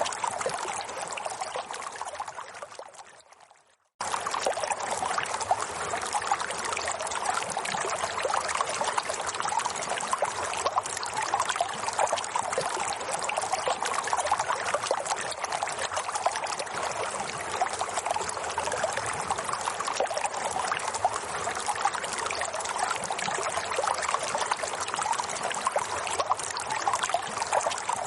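Running water trickling and splashing steadily. About two seconds in it fades out and drops to silence for a moment, then starts again suddenly at full level, as at the seam of a looped recording.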